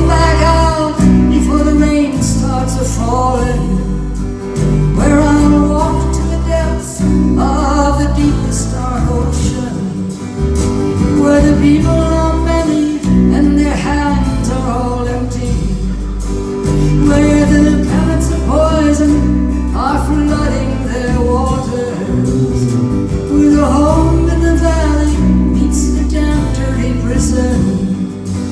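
Live folk music: acoustic guitar with singing over a steady low bass.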